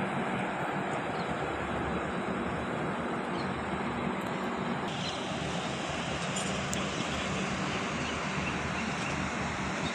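Railway train running steadily, a continuous rumble and rush of noise with a low steady hum underneath.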